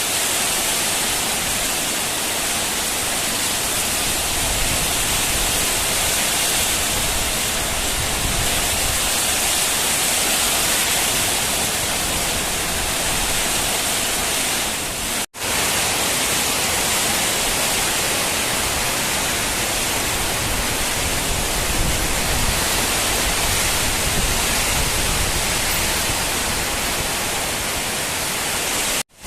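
Heavy summer-storm rain driven by strong wind, a steady loud rush with no let-up. It cuts out for a split second about halfway through.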